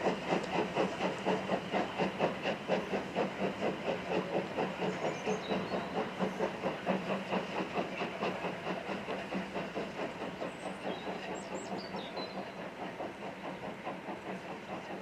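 Steam locomotive working, its exhaust beats coming in a steady rhythm with a hiss of steam, gradually fading as it draws away. A few faint bird chirps come through in the middle.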